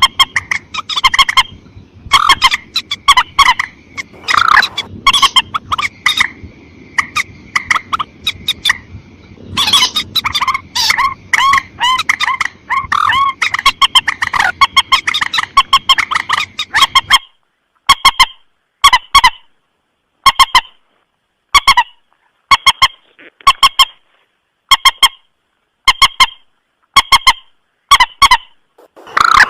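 Recorded lure call of the mandar sawah, a paddy-field rail: short, loud, honking calls repeated in fast runs. After about seventeen seconds the background hiss drops out and the calls come in evenly spaced pairs and triplets, as in a looped recording.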